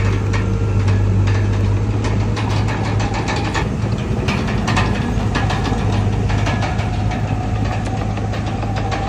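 Komatsu D31PX bulldozer's diesel engine running steadily, with irregular clatter over the deep hum.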